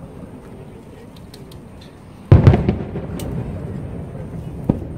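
Aerial firework shells bursting: a loud boom about two seconds in with a few quick pops and a rumbling tail, then a single sharp crack near the end.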